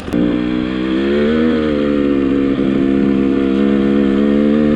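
Dirt bike engine pulling under load on a snowy hill climb, its pitch rising slightly about a second in and then holding steady.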